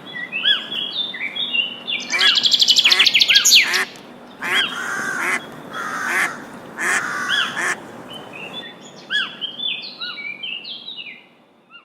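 Recorded birdsong: assorted birds chirping and calling in short, arching notes, with a loud rapid trill from about two to four seconds in. The calls fade out near the end.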